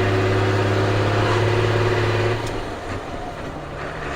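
Ford CF7000's 6.6L Brazil diesel engine pulling at a steady speed, then dropping off a little over two seconds in as the throttle is lifted and the clutch goes in for a gear change. The note then settles again at a lower, steady speed.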